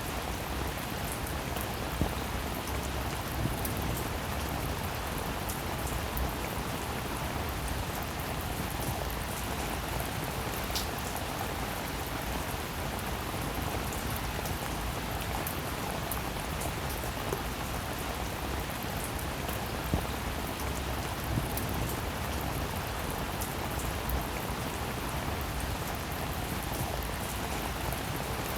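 Steady rainfall, an even hiss of drops, with a few sharper single drop hits standing out now and then.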